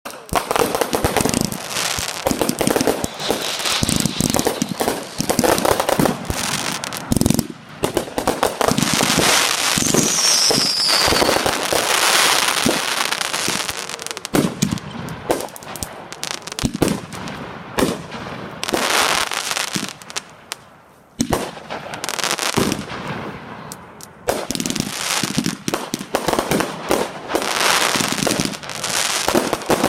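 Consumer fireworks going off in a dense, continuous barrage of bangs and crackling bursts, with a brief falling whistle about ten seconds in and a short lull about two-thirds of the way through.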